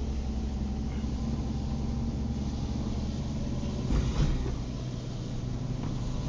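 Car on the move: steady engine hum and road noise, with a brief thump about four seconds in.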